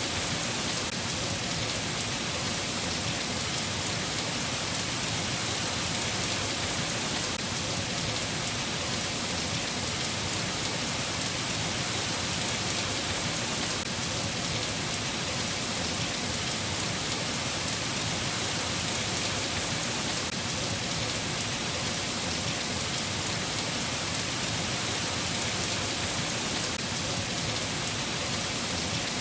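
Steady rain falling, an even hiss with no breaks or thunderclaps.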